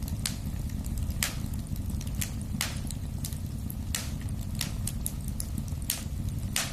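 Wood fire burning in a fireplace: a steady low rumble of the flames with irregular sharp crackles and pops from the burning logs, several stronger pops about a second apart.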